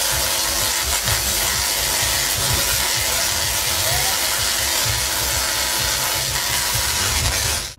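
Tesla coil arcs discharging with a steady, harsh buzzing crackle and irregular low thumps; the sound cuts off suddenly near the end.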